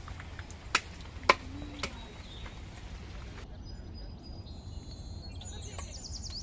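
Three sharp chops of a large curved knife cutting raw chicken on a wooden block, about half a second apart, the second one loudest. Birds chirp in the background, most busily near the end, over a steady low background noise.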